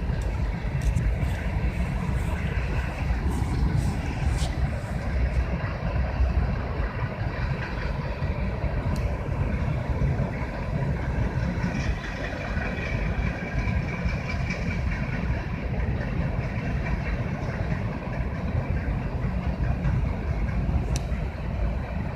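CSX freight train passing with a steady low rumble, with a few sharp clicks in the first few seconds and a faint high whine around the middle.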